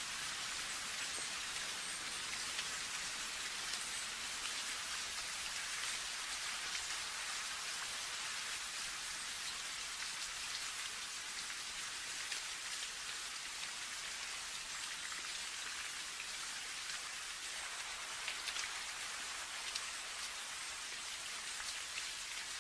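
Steady rain falling, a continuous hiss of many fine drops with small ticks of drops striking a surface.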